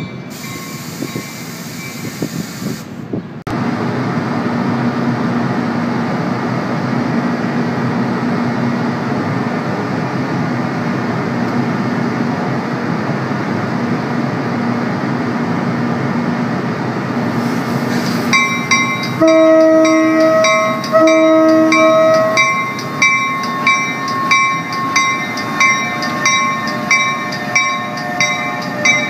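For the first few seconds a NJ Transit multilevel train runs past. Then an NJ Transit ALP-46 electric locomotive hums steadily as it moves past. About 18 seconds in, the grade-crossing bells begin ringing steadily, and the locomotive sounds its horn in two blasts, the second starting just after the first ends.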